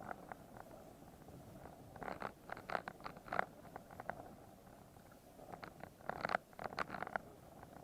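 Irregular crunching and clicking on a rocky trail as a mountain bike is pushed on foot uphill, coming in two bunches, about two seconds in and again near the end.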